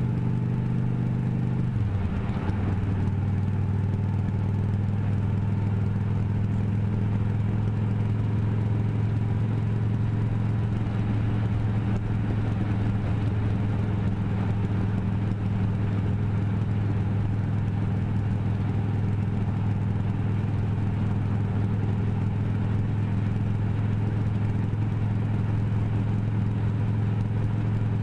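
Motorcycle engine running at a steady speed while riding, its pitch dipping briefly about two seconds in before settling again.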